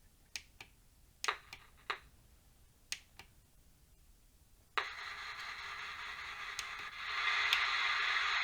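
A series of sharp clicks, then about five seconds in an Akai DAB radio's speaker starts to hiss with FM static, getting louder near the end.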